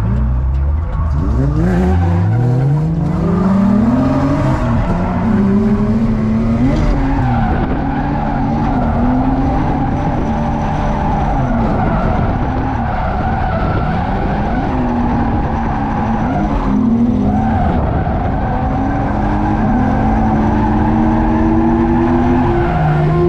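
Drift car on track: the engine revs up and down repeatedly while the tires squeal in a sustained slide.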